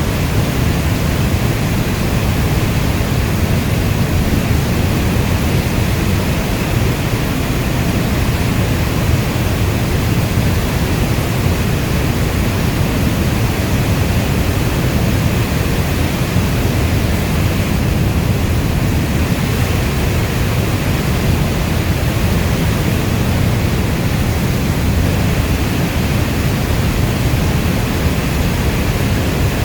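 Steady heavy rain: an even, unbroken rushing noise with a deep low rumble, no separate drops standing out and no thunder claps.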